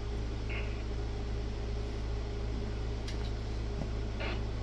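Steady low electrical hum with fan-like whooshing noise, with a few faint short clicks and rustles.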